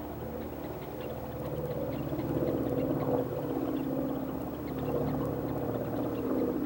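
An engine running steadily, a low drone made of several held tones.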